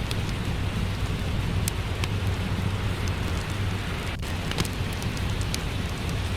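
Steady hiss of rain with a low, even rumble beneath it, and scattered sharp pops and crackles from a wood fire in a fireplace.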